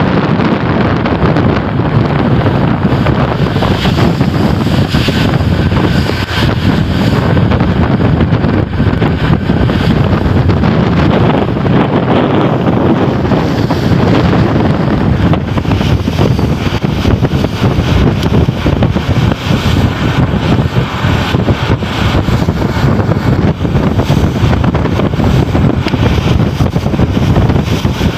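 Strong wind buffeting the microphone: a loud, steady rumbling rush with no let-up.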